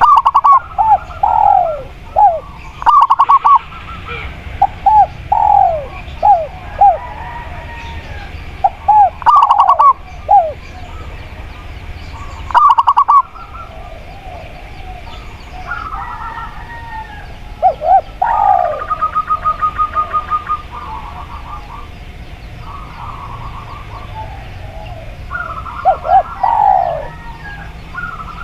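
Doves cooing: short notes that fall in pitch, repeated in quick bursts, with a fast run of evenly spaced pulses about two-thirds of the way through.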